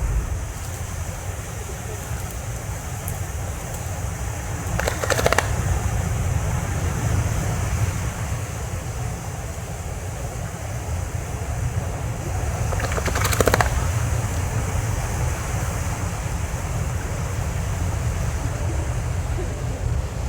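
Steady low rumble of wind on the microphone, with two short sharp sounds, one about five seconds in and one about thirteen seconds in.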